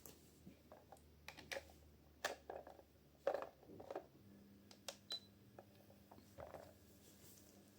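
Scattered light clicks and taps of hands handling a small plastic humidifier and pressing its buttons. A faint steady low hum begins about four seconds in.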